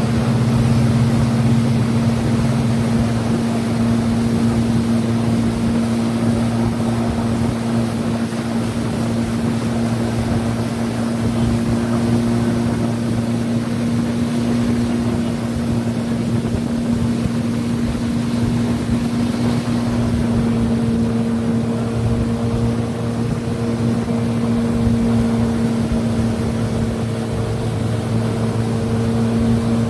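Motorboat engine running at a steady speed, its hum holding even, over rushing water and wind noise.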